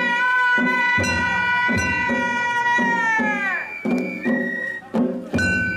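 Japanese festival float hayashi music: taiko drums beat about twice a second under a long, high held note that drops away a little past halfway. Short higher melody notes follow.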